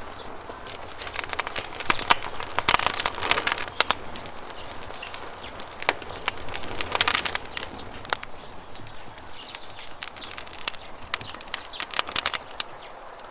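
Wood campfire crackling and popping in irregular bursts of sharp snaps, over a steady rush of flowing river water.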